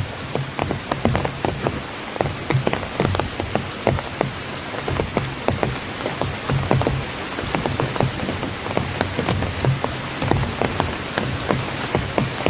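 Steady rain falling, with many sharp individual drops pattering on a surface.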